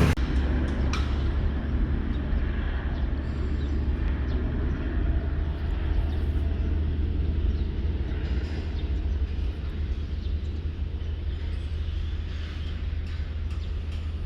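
Steady low machinery hum of a standing train, with a few faint clicks and knocks.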